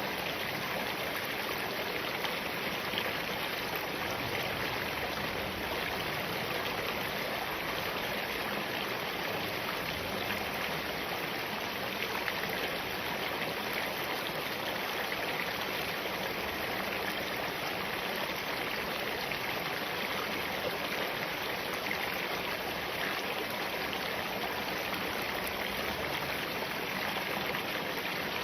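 Spring-fed mountain stream running over rocks: a steady rush of flowing water without breaks.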